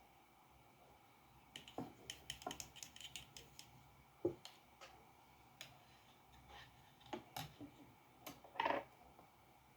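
Drawing tools on paper and desk: a run of small clicks and taps, a single duller knock about four seconds in, and a short scratchy scrape near the end.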